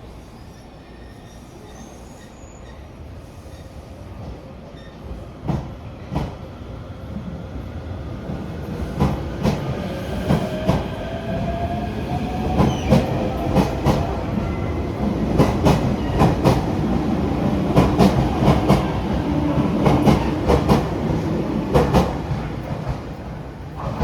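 A train running in along the rails, its rumble building steadily for most of the stretch, with a faint rising whine from the motors and repeated sharp clicks of the wheels crossing rail joints, loudest in the second half before easing off at the very end.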